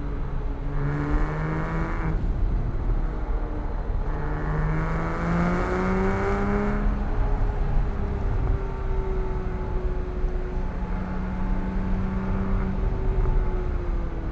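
Porsche 987.1 Cayman S flat-six engine accelerating in two surges, the second rising in pitch for about three seconds, then settling to a steadier, lighter drone. Constant low road and tyre rumble runs underneath.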